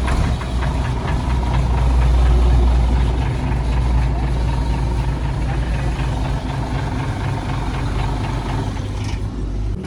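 Rebuilt Nissan diesel truck engine running steadily at idle, a little louder about two seconds in.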